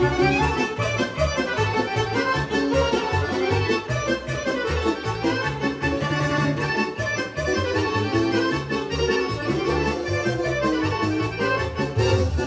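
Serbian folk dance music: a fast mixed kolo played instrumentally, led by accordion over a quick, steady beat.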